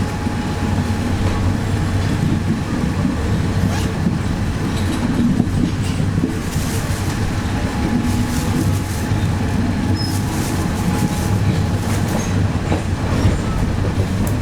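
Steady low rumble and hum of a diesel passenger train, with scattered light clicks and knocks.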